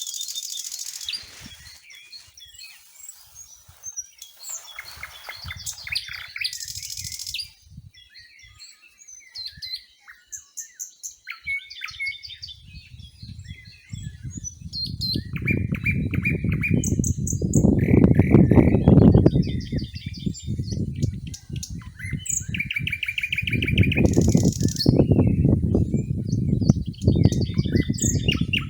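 Small birds chirping and trilling, many short high calls overlapping. From about halfway in, a loud low rumbling noise swells twice under the birdsong.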